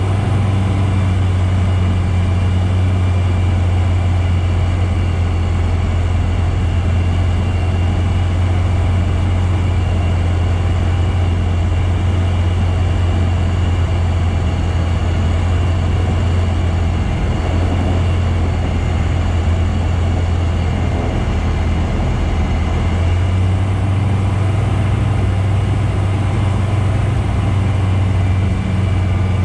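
Bristell light aircraft's engine running with a steady low drone, mixed with rushing air noise.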